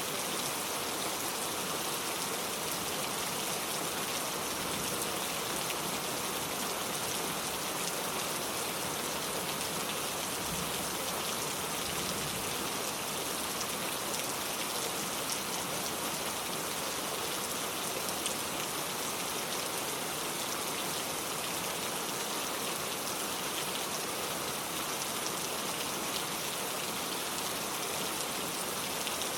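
Steady rain falling in a forest, a dense even hiss with many fine drop patters on leaves and surfaces.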